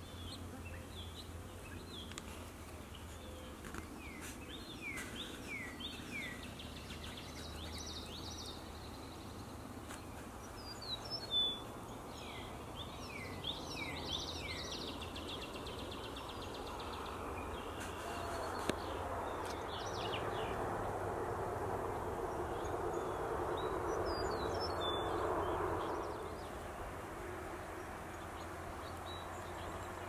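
Birds chirping, a run of short falling calls through the first half, over a steady low hum. A soft rushing noise swells about halfway through and drops off a few seconds before the end.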